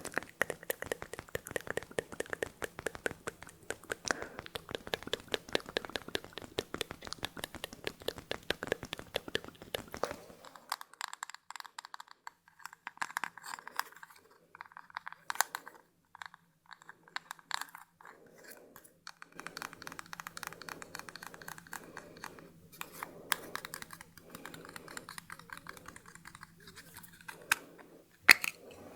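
Close-miked ASMR trigger sounds: a dense, rapid crackling and tapping for about the first ten seconds, then sparser clicks and soft rustling.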